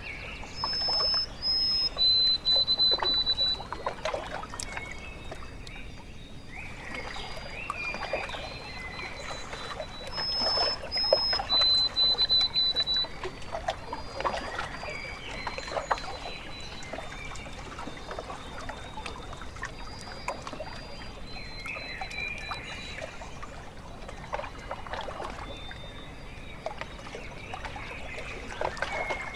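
Small waves lapping and trickling at a lake shore, with a bird singing over it: a high held whistle followed by a slightly lower held whistle, about a second in and again about ten seconds in, with fainter notes later.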